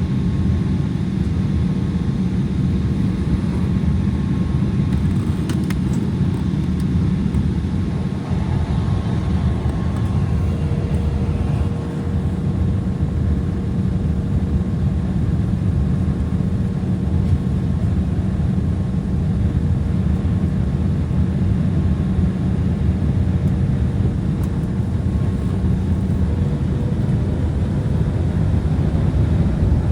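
Embraer 175 jet heard from inside the cabin: a steady low rumble of its turbofan engines, with a faint steady whine on top.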